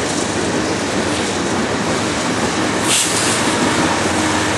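Freight train cars rolling past close by: a steady, loud rumble and rattle of wheels on rail, with a brief hiss about three seconds in.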